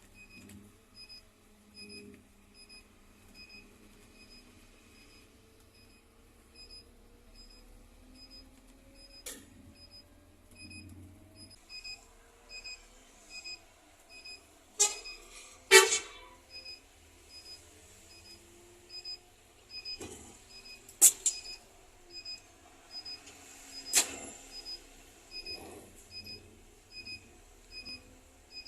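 Scania K310 bus with a short high electronic warning beep repeating a little more than once a second, over a low engine note that rises slowly in pitch for several seconds as the bus gathers speed. Several sharp clunks and clicks cut in, the loudest about sixteen seconds in.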